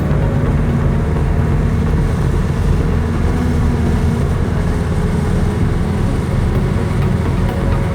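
Chevrolet Chevette on the move, its engine running steadily under an even rush of road noise.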